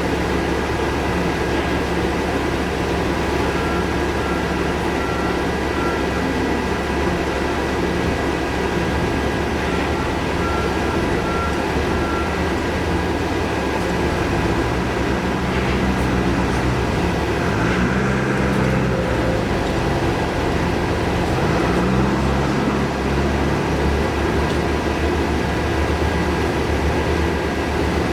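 Steady street traffic noise with a constant low rumble. About halfway through, a heavy vehicle's engine rises and falls in pitch several times, as it would accelerating and shifting.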